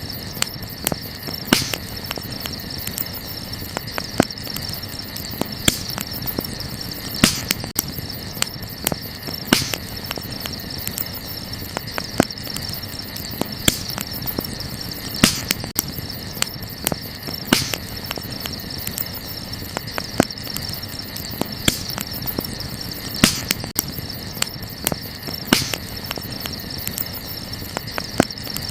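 Wood campfire crackling, with irregular sharp pops, a few louder than the rest. Crickets chirp steadily throughout.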